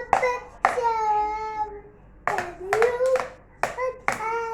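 A toddler singing in long, high held notes while beating a drum with sticks, about seven uneven strikes.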